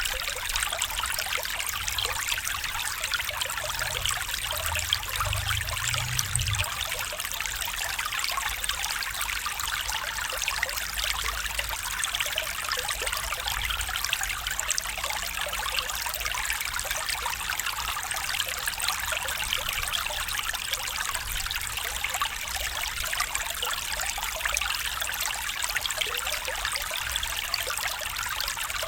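Small stream trickling and splashing steadily over stones, a continuous bright babbling water sound.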